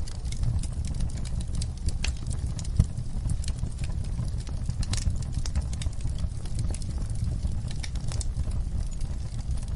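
Wood fire burning in a fireplace: a steady low rumble of flames with irregular crackles and snaps throughout, and one louder pop a little under three seconds in.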